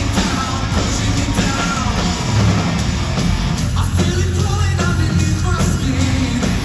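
Heavy rock band playing live at full volume, with heavy bass and drums under a vocalist singing and shouting.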